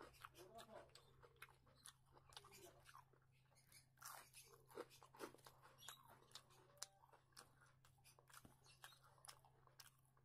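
Close-miked chewing of raw cucumber: a faint, continual run of small crisp crunches and mouth clicks.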